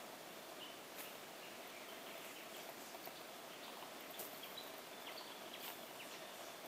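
Faint bushland ambience with scattered short, high bird chirps and a few sharp clicks.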